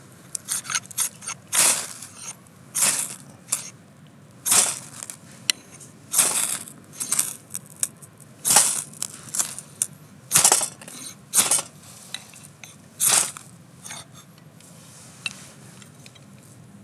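Bark River Bravo 1 bushcraft knife shaving curls off a stick of firewood to make a feather stick. The scraping strokes come roughly once a second, with a quicker run of short strokes at the start, and stop near the end.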